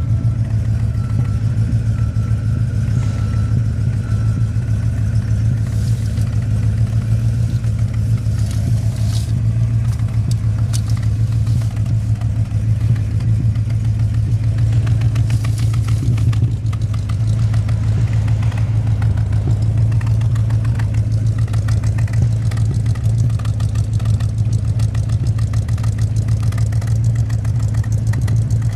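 1967 Cadillac Eldorado's 429 cubic-inch (7-litre) V8 idling steadily through its true dual exhaust, with a little sputtering that the owner puts down to burning some old gas.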